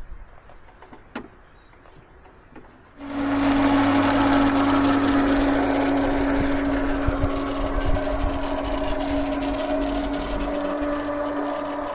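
A small motor starts about three seconds in and runs steadily with a strong, even hum, after a few faint clicks.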